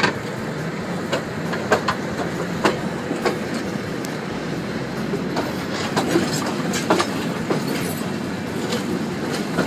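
Passenger train carriage running over a viaduct, heard from an open window. The wheels rumble steadily on the track, with sharp clicks and clacks coming irregularly, about one or two a second.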